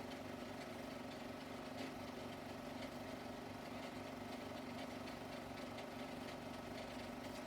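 16mm film projector running: a steady mechanical whirr and hum with faint ticks, the only sound on a silent home movie.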